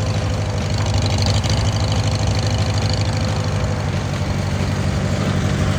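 Old Farmall tractor engine running steadily at a low, even speed, with a faint thin whine over it that fades out about two-thirds of the way through.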